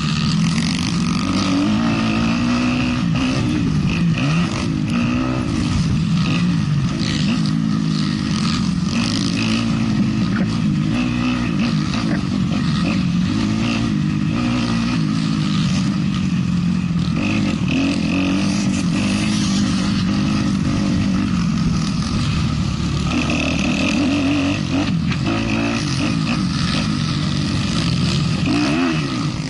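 Motocross bike engine pulling hard and dropping off again and again as it is ridden round the track, with frequent knocks and rattles.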